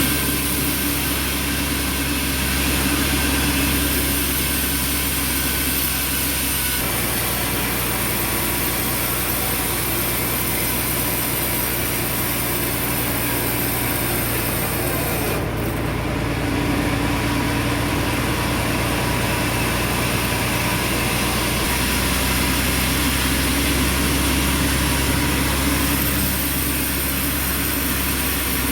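Band sawmill machinery running steadily, a motor drone with a constant hum, shifting in pitch about seven seconds in and again around twenty-two seconds.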